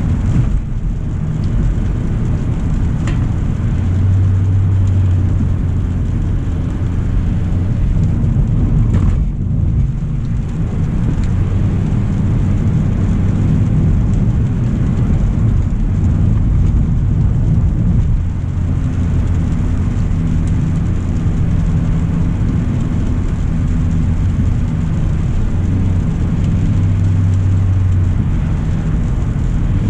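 2025 Hyundai Elantra SEL driving on a rain-wet road: a steady low rumble of road and tyre noise with a light hiss above it, and a faint short tick about three seconds in.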